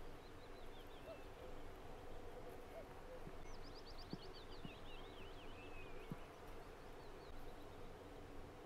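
Faint distant birdsong: scattered chirps and slurred whistles, with a quick run of rapid notes about halfway through, over a faint steady hum.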